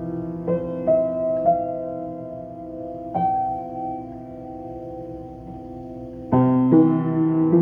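Solo piano playing a slow piece: a few notes struck in the first second and a half and one about three seconds in, left ringing and fading, then a louder chord struck near the end.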